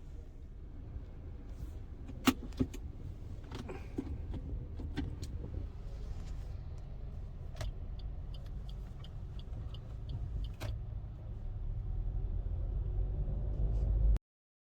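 A car's engine running as a low, steady rumble that grows louder toward the end and then cuts off suddenly, with sharp clicks and knocks and a run of quick, even ticks about three a second.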